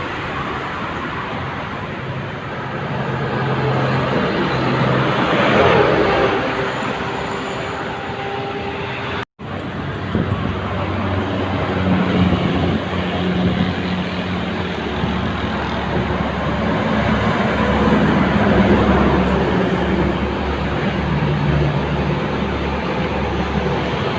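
Heavy trucks' diesel engines and tyres passing on a busy highway, one swelling loudest about five or six seconds in. The sound cuts out for an instant about nine seconds in, then resumes with a deeper engine rumble.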